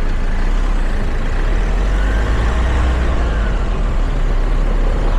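Wind and road noise on the roof-mounted camera of a moving Toyota RAV4: a steady, loud low rumble with a hiss spread above it.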